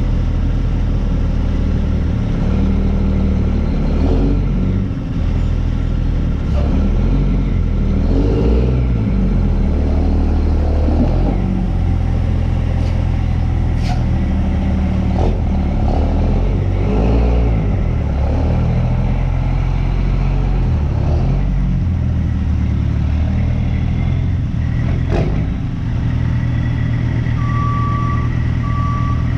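Diesel engine working under changing load, revving up and settling back repeatedly, with a few sharp clanks. Near the end a reversing alarm starts beeping steadily.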